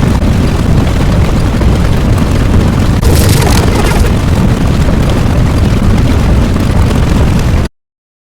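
Loud, continuous rumbling sound effect, heaviest in the low end, growing brighter about three seconds in. It cuts off abruptly near the end into silence.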